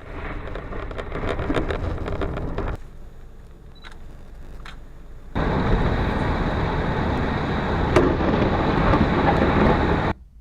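Heavy rain with gusty wind, a dense rushing hiss with a low rumble. It comes in two loud stretches that start and stop abruptly, with a quieter gap in between.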